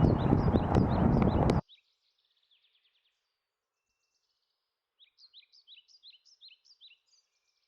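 Small songbirds chirping in quick runs of short, falling notes. For about the first second and a half they sound over loud, steady outdoor noise, which cuts off abruptly; after that they are heard alone and faint.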